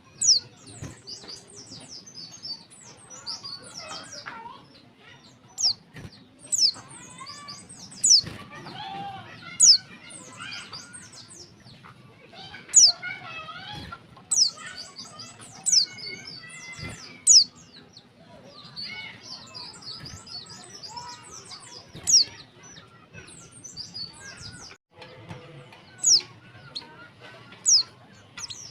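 Female white-eye (pleci) calling: short, sharp, high notes that drop steeply in pitch, repeated every one to four seconds. Softer, continuous twittering from other birds runs beneath.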